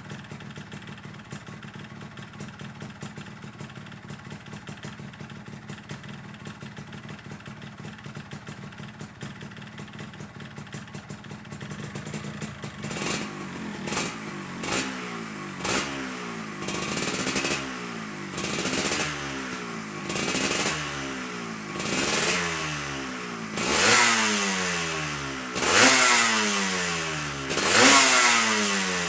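Yamaha RXZ 135's two-stroke single-cylinder engine idling steadily, then, about halfway through, revved in repeated short throttle blips that rise and fall, getting louder toward the end. The bike is warming up with a leaking exhaust.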